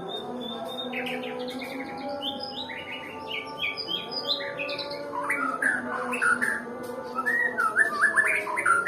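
White-rumped shama singing a fast, varied song of chirps and sweeping whistles, growing louder in the second half, over background music.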